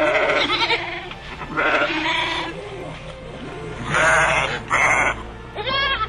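Bleating, about five calls in a row, each quavering in pitch, over background music.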